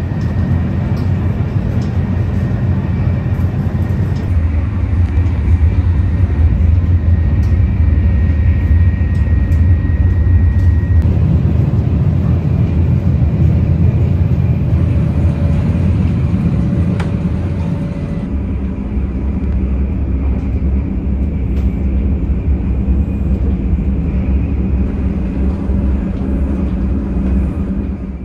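Steady low rumble of a 500 Series Shinkansen running, heard from inside the train, its tone shifting a few times.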